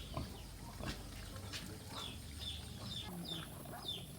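Young poultry peeping: a series of short, high, falling peeps repeating every half second or so, with a few faint clicks among them.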